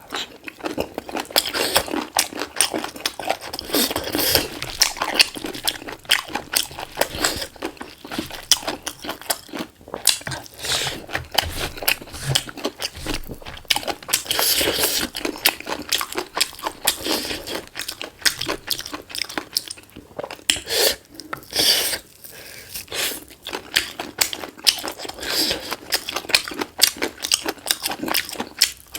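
Close-miked eating of black chicken: repeated crunching bites and wet chewing, steady throughout.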